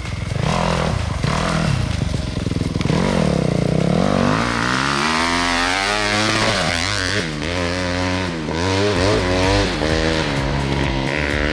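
Yamaha YZ250F four-stroke dirt bike riding past, its engine revving up and down repeatedly.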